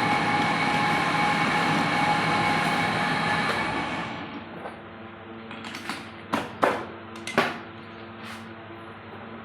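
Metal lathe turning a small nut: a steady machining noise with a whine for about four seconds, then it drops to a quieter run. A few sharp metallic clinks follow.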